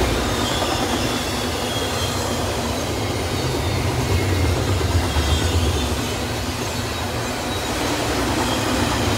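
Double-stack intermodal well cars of a freight train rolling past: a steady rumble of steel wheels on rail that swells slightly a few seconds in, with a faint high wheel squeal.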